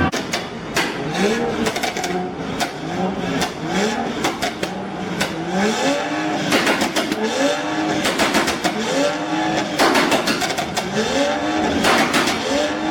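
A car engine revved over and over, its note rising and falling about once a second, with clusters of sharp cracks from exhaust pops and bangs between the revs.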